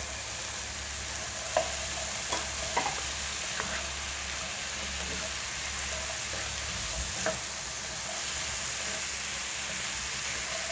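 Diced carrots and chicken pieces sizzling steadily in a hot oiled frying pan as they are stirred with a plastic spatula, which clicks against the pan now and then.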